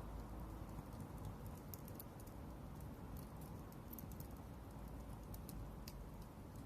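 Wood offcuts burning in a fire stand, crackling with scattered sharp pops at irregular moments over a low steady rumble.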